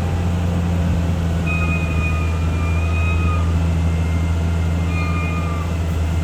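CAT D6R bulldozer's diesel engine running steadily under work, with short high squeals that come and go several times.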